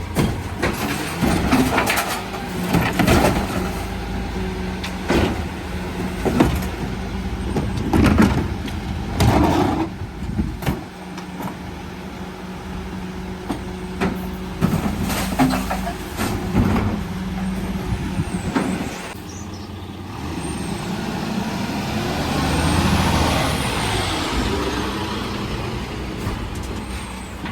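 Mercedes Econic refuse truck working a bin round: its engine and hydraulics hum steadily while the lifters tip the bins, with repeated bangs and clatters over the first two-thirds. Later a broad rushing noise swells and fades.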